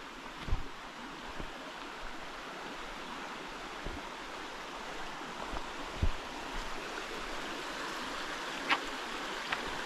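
Stream water running steadily, with a few dull low knocks, the loudest about half a second in and about six seconds in.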